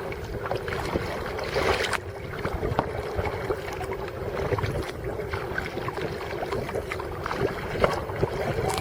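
Kayak paddling on open water: paddle strokes splashing and dripping, with scattered small splashes over a steady low rumble.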